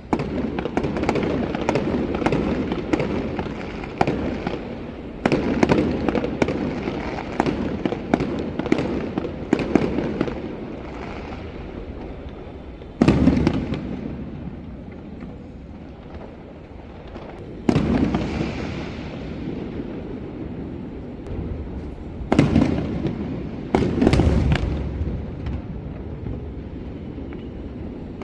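Fireworks going off: a dense run of crackling bangs for about the first ten seconds, then single heavy booms with rolling echoes, about 13 s, 18 s, 22 s and 24 s in.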